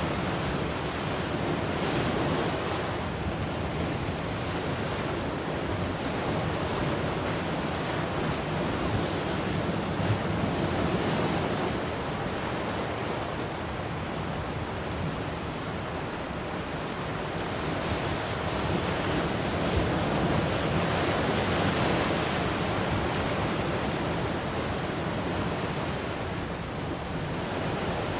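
Ocean surf: waves washing ashore in a continuous rush, swelling and easing slowly every several seconds.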